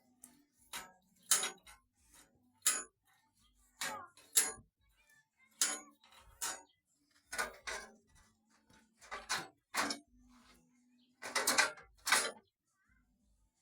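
Irregular sharp metallic clinks and knocks, about one a second, with a quick cluster of them near the end, as from metal parts or tools being handled.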